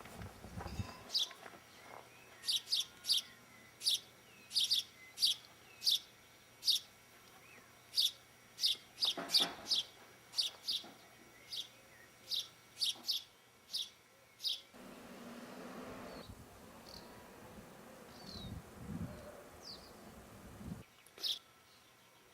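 A small bird chirping repeatedly in short, sharp, high chirps, often in pairs, about one or two a second, thinning out to a few scattered chirps after about 14 seconds.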